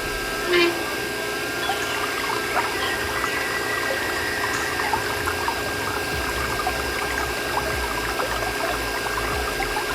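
Water pouring and trickling from a miniature water pump, over the pump motor's steady hum. A brief louder sound stands out about half a second in.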